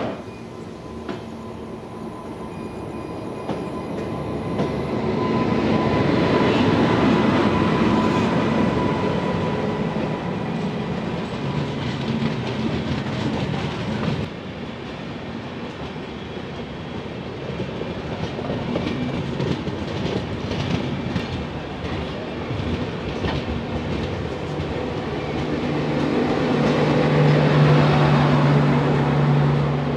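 Moving passenger train heard from an open coach door: a steady rumble with wheels clattering over the rails. Trains on the adjacent track pass close by, and a steady low hum comes in near the end.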